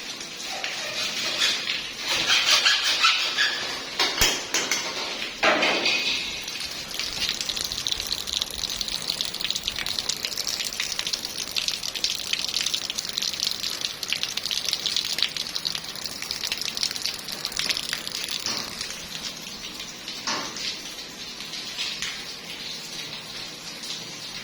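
Water running steadily from a tap or pipe, with a few sharp knocks along the way.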